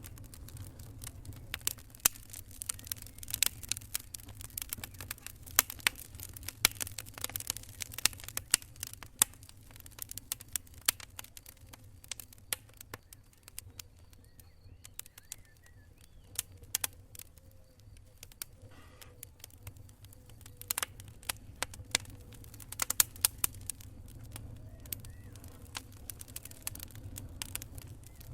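Wood campfire crackling: many sharp pops and snaps, coming in dense flurries and then thinning out, over a steady low rumble.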